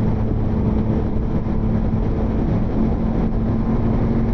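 Motorcycle engine running steadily while riding, heard with wind and road noise on a helmet-mounted microphone.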